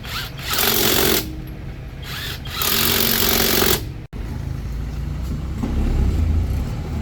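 A hammering power tool, such as an air impact wrench, runs in two bursts of about a second each. After a sudden cut, a steady low rumble follows.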